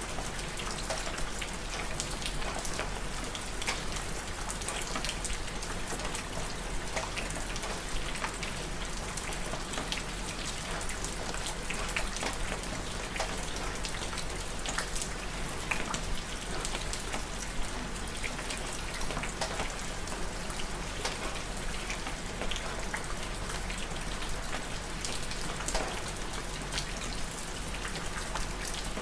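Steady rain, with many separate drops ticking sharply on a hard surface over an even hiss of falling water. A steady low hum runs underneath.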